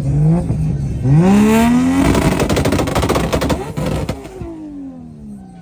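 A car engine revving hard, its pitch climbing steeply about a second in. About two seconds in comes a rapid string of exhaust pops and crackles, the kind a flame-spitting exhaust gives off the throttle. Near the end the engine pitch falls away in a long glide.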